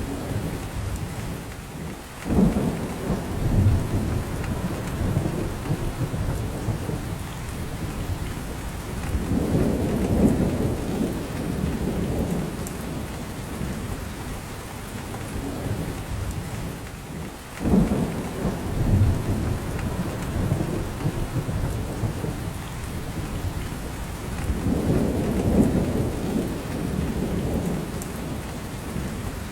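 Steady rain falling in a spruce forest, with drops falling from the branches. Low rumbles rise over it: one starts suddenly about two seconds in and another near eighteen seconds, and fuller swells come around ten and twenty-five seconds.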